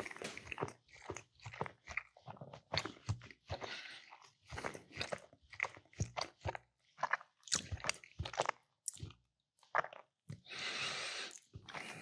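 Close-miked chewing of a mouthful of baked mac and cheese, with many short, irregular wet clicks and crunches, and a second-long hiss near the end.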